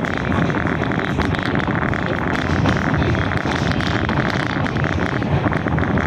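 Passenger train coach rolling along the track at speed: a steady rumble and dense rattle of steel wheels on the rails, with some wind noise.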